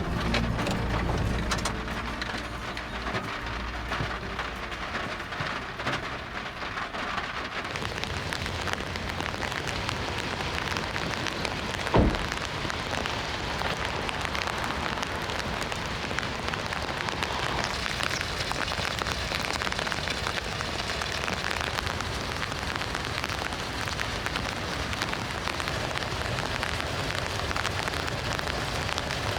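Heavy rain falling steadily, with a low vehicle engine hum fading out in the first few seconds. A single sharp knock sounds about twelve seconds in.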